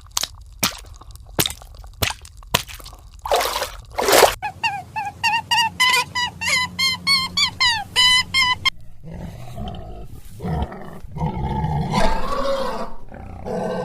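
A sequence of animal sounds. It opens with sharp clicks and two short noisy bursts, then comes a quick run of short rising calls, about two a second. It ends with a rougher, lower call.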